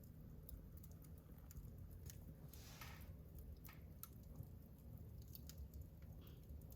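Wood fire burning in a fireplace, faint: scattered small crackles and pops over a low rumble, with a brief hiss near the middle.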